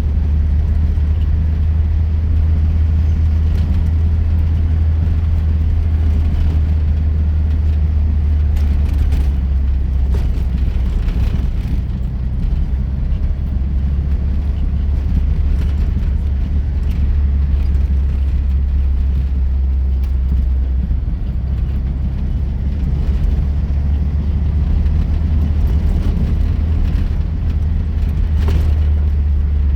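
A car driving off-road over rough ground: a steady, deep rumble, with a few scattered knocks and rattles.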